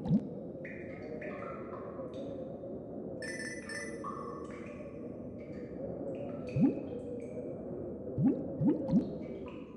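Cartoon background music of held melodic notes, with short rising bloop sound effects: one about two-thirds of the way in and three in quick succession near the end.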